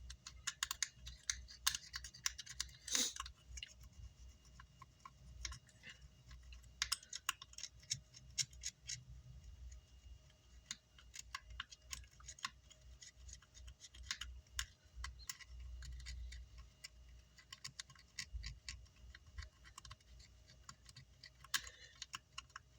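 Faint, irregular scratching and clicking of a pointed tool scraping burnt char off a car amplifier's power-supply circuit board, with one longer scrape about three seconds in. The scraping clears the black burnt spots to expose any circuit traces beneath them.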